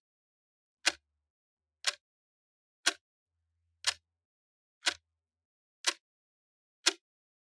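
Clock ticking steadily, one sharp tick a second, seven ticks in all.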